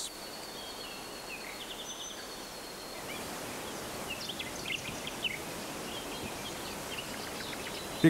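Outdoor nature ambience: a steady background hiss with faint, scattered bird chirps.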